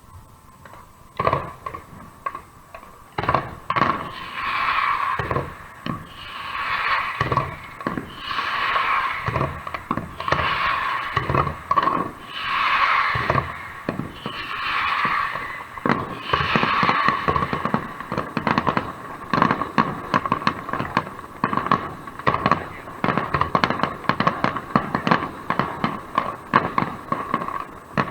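Fireworks display: a few separate loud bangs at first, then a run of swelling hisses about every two seconds with bangs between them, giving way after the middle to a rapid, dense string of bangs and crackles.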